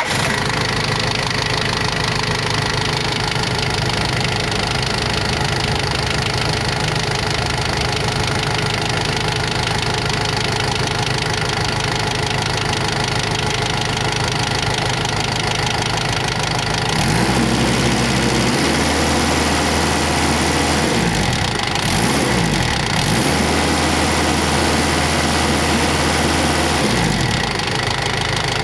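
Toyota 3Z diesel forklift engine running at a steady idle, then revved up and back down several times in the second half.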